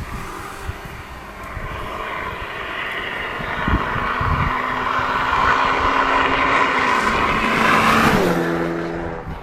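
Honda Civic Type R FN2's four-cylinder engine and exhaust as the car drives past: a steady note that grows louder as it approaches, then drops in pitch and fades as it passes, about eight seconds in. There is one short thump a little before halfway.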